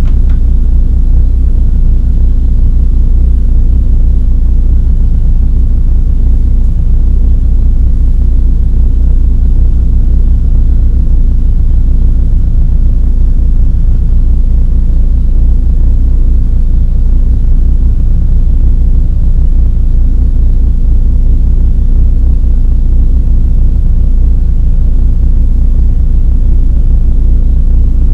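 Rally car's engine idling steadily while the car stands still, heard from inside the car as a loud, even low rumble.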